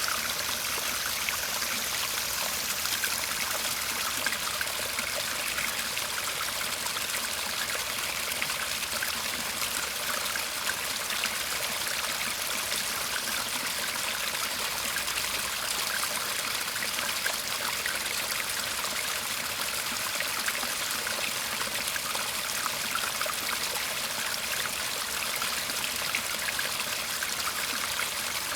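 Small garden stream babbling and trickling steadily.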